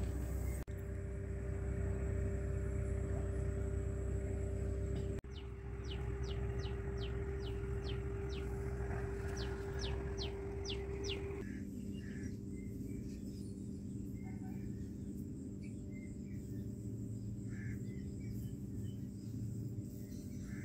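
A bird calls in a rapid run of about a dozen short, high, downward-sweeping chirps in two groups through the middle, with fainter scattered chirps later, over a steady low hum and rumble.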